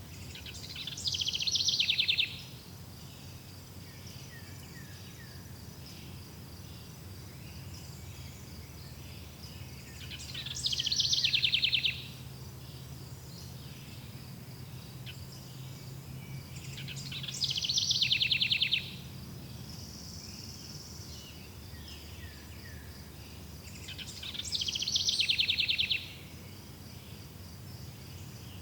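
A songbird sings the same song four times, each about two seconds long and ending in a fast trill. Under it runs a steady, high chirring of insects such as crickets.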